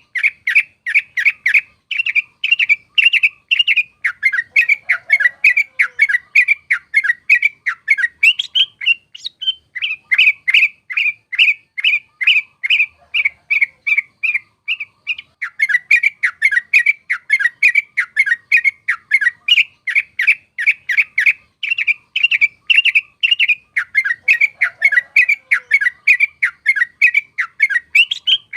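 Yellow-vented bulbul (trucuk) singing its rolling chatter: a continuous run of short, bubbly notes, about four to five a second, easing briefly twice before picking up again.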